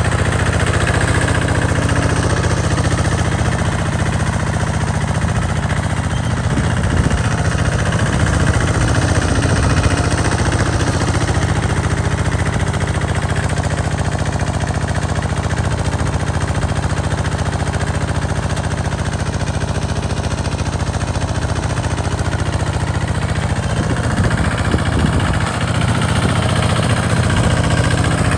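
Tractor engine running steadily with a rough, clattering beat while the tractor plows a sandy field.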